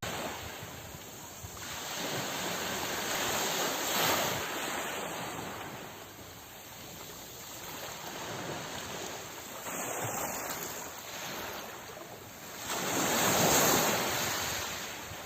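Sea waves surging and breaking in slow swells a few seconds apart, the biggest surge near the end.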